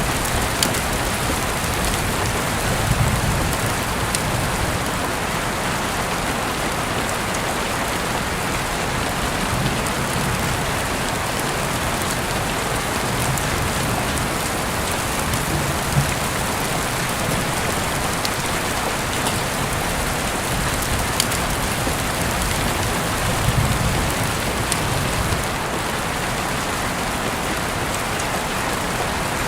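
Heavy rain falling steadily through an open window, an even hiss with scattered sharper drop impacts.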